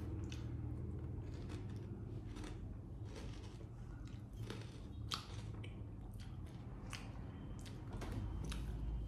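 Potato chips crunching as they are bitten and chewed: sharp crunches at irregular intervals over a low steady hum.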